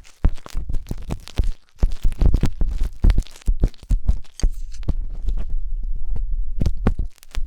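Wooden skewer scraping and rubbing inside the silicone ear of a 3Dio binaural microphone, close up. It makes quick, irregular scratchy strokes with dull low thuds, and pauses briefly near the end.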